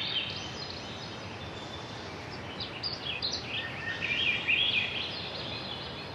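Songbirds singing in short, quick warbled phrases, once right at the start and again from about two and a half to five seconds in, over a steady outdoor background hiss.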